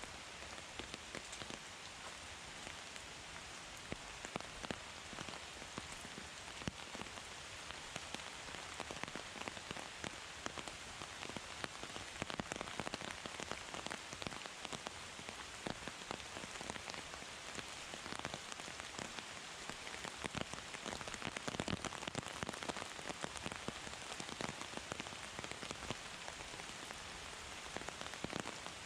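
Heavy rain falling through rainforest: a steady dense hiss with many close, sharp drips and drops striking leaves and the ground.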